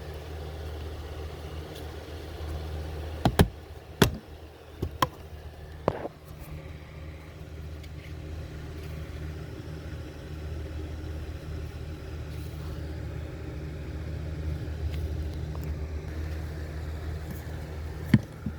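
Car idling: a steady low hum runs throughout. A few sharp clicks and knocks come about three to six seconds in, and one more near the end.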